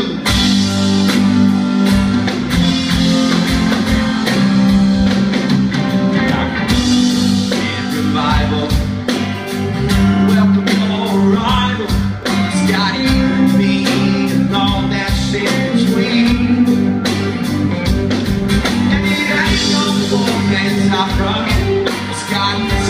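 Live rock band playing with guitars, bass and drums at a steady beat, with a voice singing over it.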